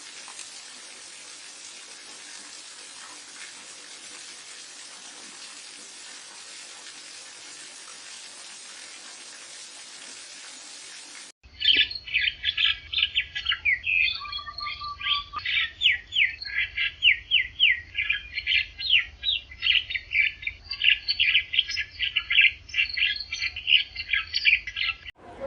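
A steady hiss of running water, then an abrupt cut about eleven seconds in to birds chirping loudly and rapidly, many short calls in quick succession. A brief steady whistle comes a few seconds after the cut.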